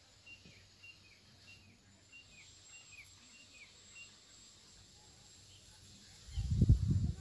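A bird repeating a short chirp with a falling tail, about two a second, over faint outdoor background. About six seconds in, loud low rumbling and thumps on the microphone take over.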